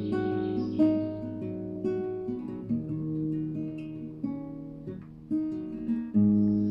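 Acoustic guitar playing the instrumental introduction to a song. Chords are struck about once a second and each one rings out before the next.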